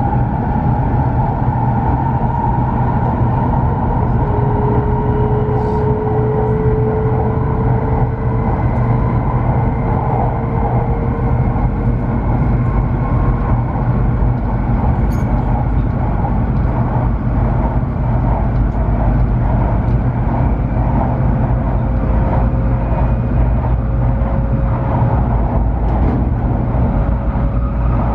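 Cabin noise of a W7 series Shinkansen running at speed: a steady, loud rumble of wheels on rail and running gear, heard from inside the car. Faint whining tones sit over it and slowly rise in pitch.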